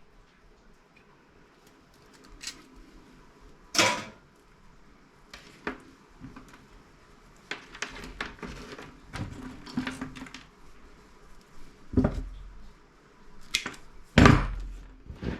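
Knocks and clatter of scrap parts from a dismantled CRT monitor being handled and set down, with three louder thumps among lighter clicks and rattles.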